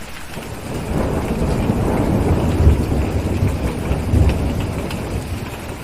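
A deep rumble of thunder swells about a second in, peaks twice and slowly eases off, over a steady hiss of rain.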